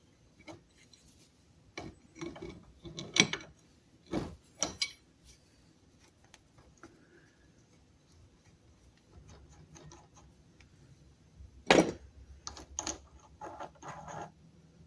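Workshop handling noise from taking apart the parts of an antique lathe: scattered knocks and scrapes of pieces being moved and set down on a bench, the loudest knocks about 3 and 12 seconds in, with a faint low hum in the second half.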